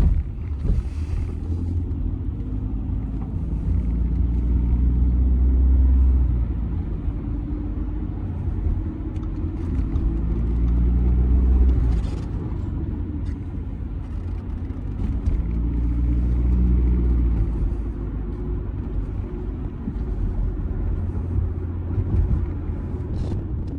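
Audi A6 C6 2.0 TDI four-cylinder diesel driving along, a low engine hum over road and tyre rumble. The engine note and loudness swell three times and fall back.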